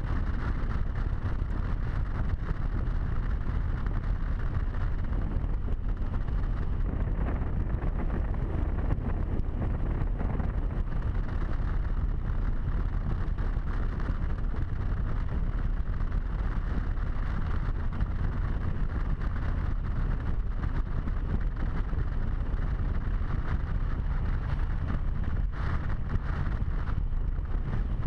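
Harley-Davidson V-twin motorcycle running steadily at road speed, heard through heavy wind rushing over a helmet-mounted microphone.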